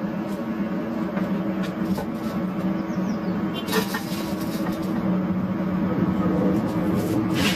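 Steady mechanical hum with a couple of level tones, like a kitchen appliance motor running, with a few light clicks and knocks over it.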